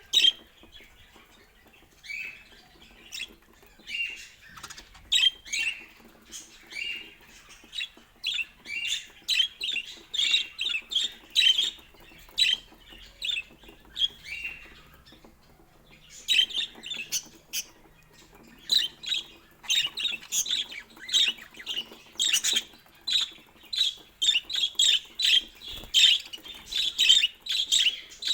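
Budgerigar chirping and chattering in quick runs of short, high calls, broken by a few pauses of a second or so.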